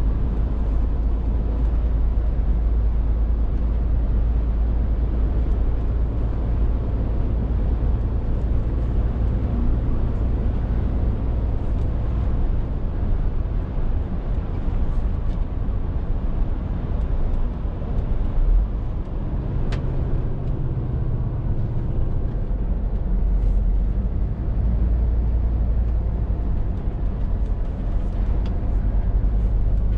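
Scania R450 lorry's 13-litre six-cylinder diesel engine running steadily on the move, a constant low drone with road noise; the engine note shifts slightly partway through.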